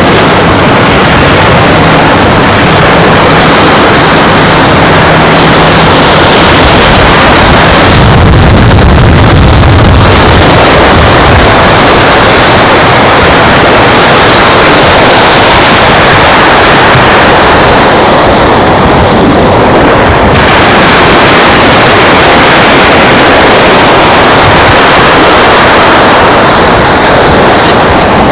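Strong wind buffeting the microphone over the wash of surf, a loud steady rush, with a heavier low gust about eight seconds in.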